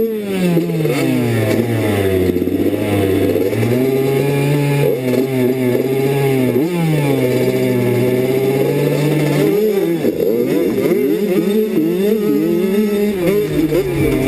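85cc two-stroke motocross bike engine revving hard through the gears on a track. The pitch climbs and drops over and over as the rider opens and shuts the throttle, with several quick rises and falls in the last few seconds.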